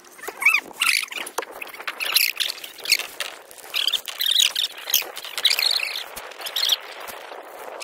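Birds calling with many short, quick chirps, one after another.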